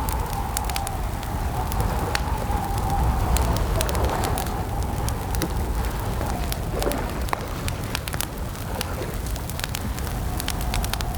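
Campfire crackling, with many sharp pops scattered throughout over a steady low rumble. A faint wavering whistle-like tone runs beneath it.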